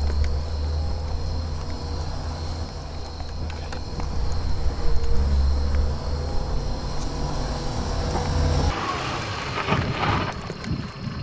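Renault Clio's engine running low and steady as the car creeps along at walking pace. The deep rumble cuts off abruptly about two and a half seconds before the end, leaving lighter rustling with scattered clicks.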